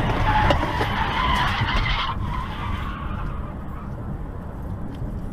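Car tyres skidding: a hissing skid that fades out about two seconds in, leaving a low steady rumble of the vehicle.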